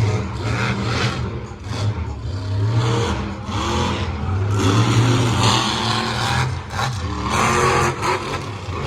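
Monster truck engine running loud and revving hard in surges, the pitch climbing and falling.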